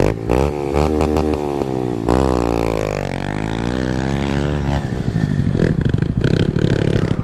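Dirt bike engine revving, its pitch climbing and falling twice, then dropping to a lower, choppier run about five seconds in.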